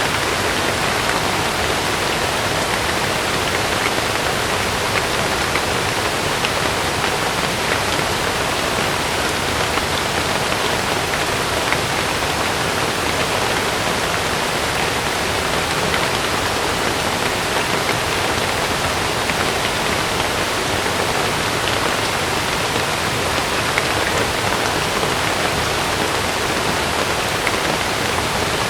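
Heavy rain falling on a camping tent: a steady hiss of rain with scattered sharp drop ticks on the fabric, unchanging throughout.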